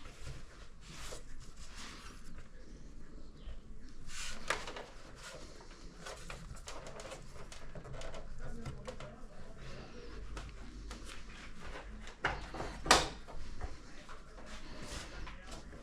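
Scattered clicks, taps and light rustles of objects being handled, with a sharper knock about 13 seconds in.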